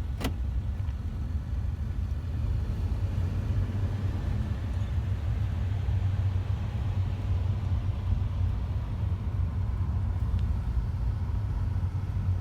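Steady low rumble of idling vehicle engines, with a single sharp click just after the start.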